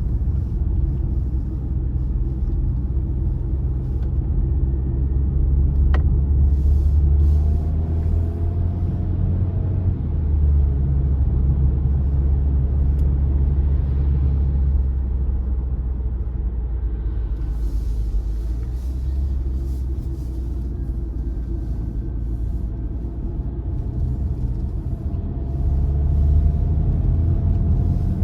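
Car driving on the road: a steady low rumble of road and engine noise, with the engine note rising and falling a couple of times.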